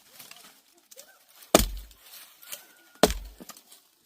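Heavy chopping blows on a block, two strikes about a second and a half apart, each a sharp crack with a dull thud beneath it.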